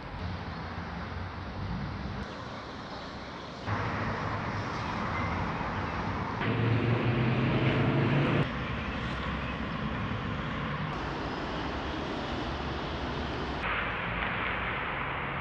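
Outdoor city ambience of steady traffic noise, with a louder passing-vehicle hum for a couple of seconds midway. The background shifts abruptly several times, as from one short recording to the next.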